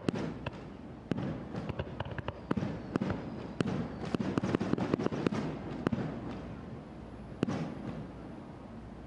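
Fireworks display: aerial shells bursting in a rapid string of bangs and crackles, densest in the middle, then thinning out with one last strong bang near the end.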